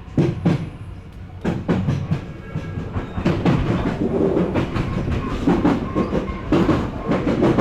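Odakyu Enoshima Line electric train running, its wheels clattering in a quick series of sharp knocks over track joints, starting suddenly and staying loud.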